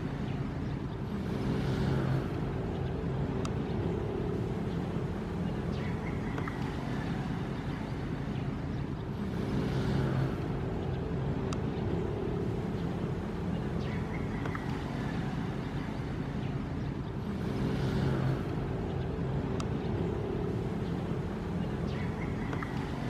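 Ocean waves with a deep, steady rumble, swelling about every eight seconds in an evenly repeating cycle.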